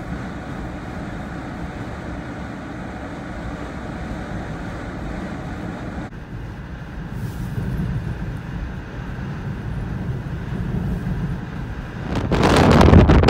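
Blizzard wind and a vehicle making a steady low rumble, with a slight break about halfway through. Near the end a strong gust hits the microphone, suddenly much louder, and the rush reaches well up into the high pitches.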